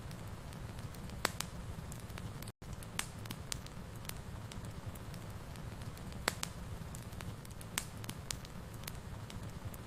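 Fireplace wood fire crackling, with irregular sharp pops over a steady low rumble; the loudest pops come about a second in, near six seconds and near eight seconds. There is a split-second dropout to silence about two and a half seconds in.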